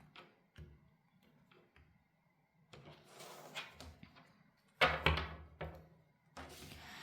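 Tarot cards being handled and shuffled: a few light taps, then rustling, with one louder thump about five seconds in.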